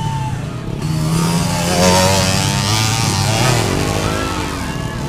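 Trail motorcycle engine revving hard on a steep dirt hill climb, its pitch wavering up and down, loudest about two seconds in and then fading.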